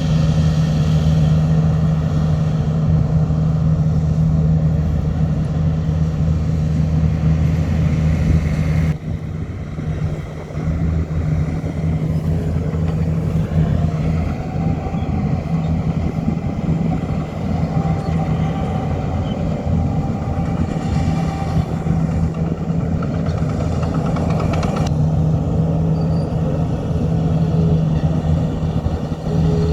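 Heavy diesel construction machinery running steadily with a strong low engine note. The sound shifts abruptly about nine seconds in and again near the end.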